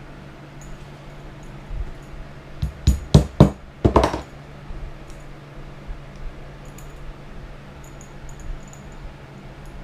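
About five sharp knocks in quick succession about three seconds in, the last one ringing on briefly, over a steady low hum.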